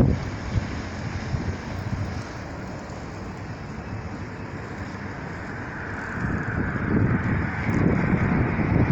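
Wind buffeting the microphone over a steady rushing noise, with heavier gusts at the start and again from about two thirds of the way in.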